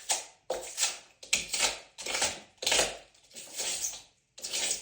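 Old foam insulation being scraped and crunched out of a wall by hand, in a run of about six rough strokes, one every 0.7 s or so.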